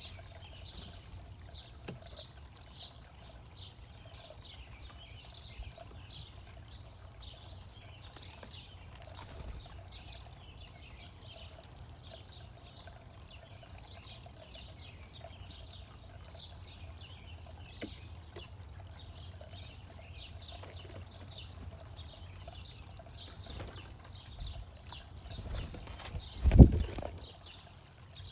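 Small birds chirping continuously in the background, many quick high chirps overlapping. About two seconds before the end comes one loud, low thump.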